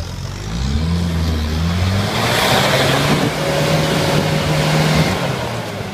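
Toyota off-road 4x4's engine revving hard under load as it climbs a steep mud slope, the pitch stepping up about half a second in and holding. A loud rushing noise joins in from about two seconds in, and both fade near the end.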